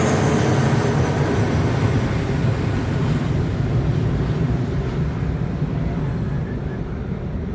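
A plane's engines running at takeoff power as it passes and moves away. A whine drops in pitch at the very start, then a low, loud roar slowly fades.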